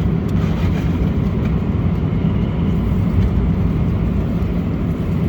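Steady low rumble of a Boeing 777-300ER's cabin in cruise flight: engine and airflow noise heard inside the airliner.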